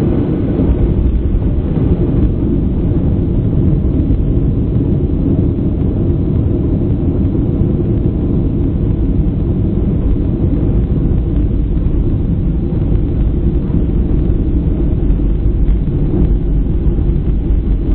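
Steady low rumble of a Boeing 737-800's CFM56 engines and airflow, heard inside the passenger cabin, with no clear change in level.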